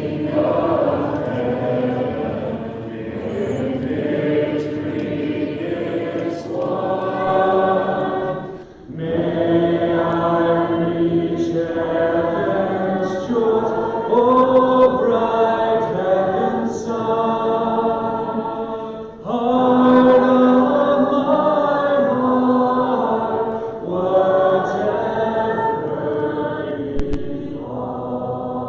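A congregation singing a hymn a cappella, without instruments, in long held phrases with brief breaks between lines.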